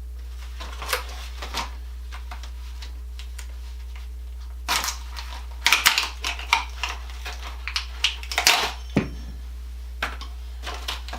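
Small hex head cap screws from an assembly hardware packet being handled, clicking and rattling against each other: two light clicks near the start, then a busier run of clicks and rattles from about halfway on. A steady low hum sits underneath.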